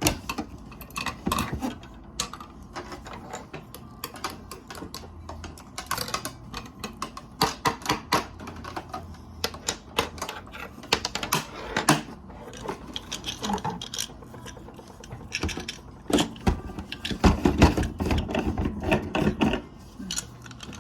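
Small plastic toy pieces clicking and clattering as they are handled, in an irregular run of taps that grows busier and louder near the end.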